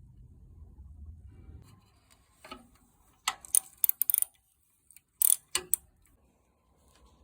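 Sharp metallic clicks and clinks of hand work on a bicycle's brake during a brake shoe change, in two quick clusters about three and five seconds in.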